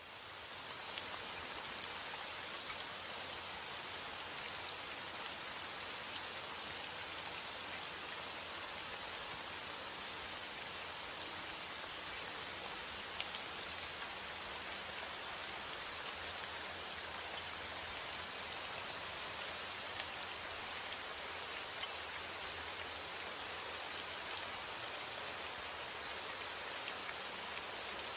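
Heavy rain falling steadily as an even hiss with scattered sharp drop ticks, fading in over the first second.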